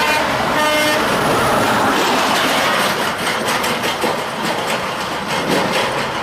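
Heavy truck traffic passing close by: a steady rush of tyres and engine noise with a clattering rattle, as of a trailer over road joints. A brief pitched tone sounds about half a second in.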